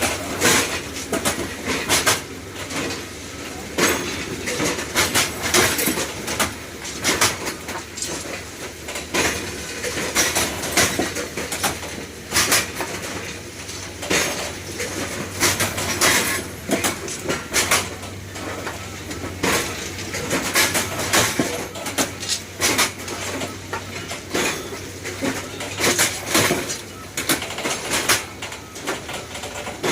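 Railway track-repair machine working on the line: a steady engine hum under frequent, irregular metallic clanks and clatter.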